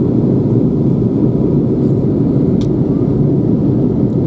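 Steady low rumble of an Airbus A321's engines and airflow heard inside the passenger cabin.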